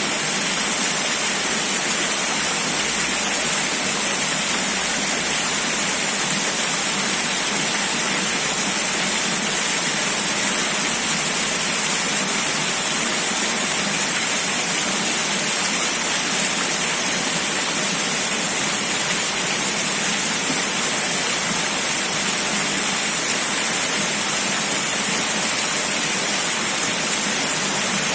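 Steady rushing water, an even hiss that does not change, with most of its energy high and little low rumble.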